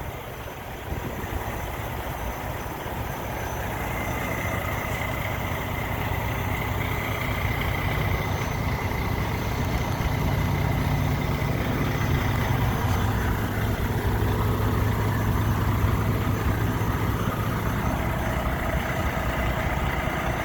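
Semi-truck's diesel engine idling: a steady low rumble that grows louder over the first few seconds, then holds.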